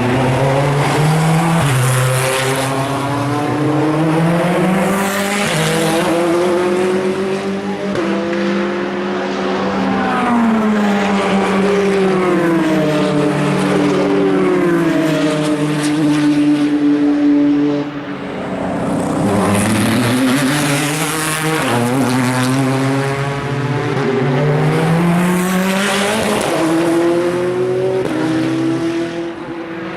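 Endurance race cars running at speed, one after another. Their engine notes climb in pitch through the gears and drop away as they pass, with a brief lull about two-thirds of the way through before the next car comes up.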